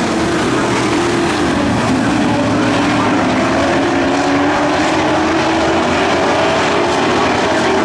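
Several dirt-track racing truck engines running at speed around the oval, a loud steady drone of overlapping engine notes that drift slowly up and down in pitch.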